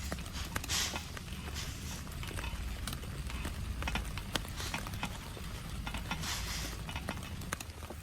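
Rain falling steadily, with many sharp drops tapping irregularly on a nearby surface and a low rumble underneath.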